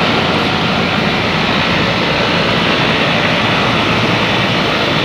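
Commercial air-conditioning condensing unit running: a steady rush of the condenser fan over a low compressor hum.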